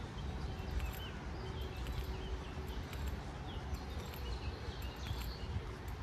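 Small songbirds chirping in short, scattered calls over a steady low rumble, with light footsteps on a path.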